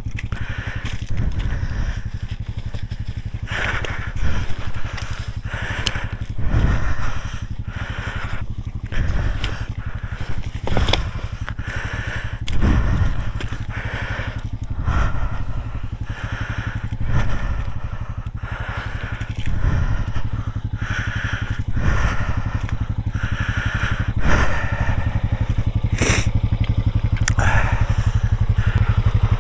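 Off-road vehicle engine running steadily while riding a rough trail. Irregular crunching, scraping and clattering from the wheels over the rough ground run on top of the engine.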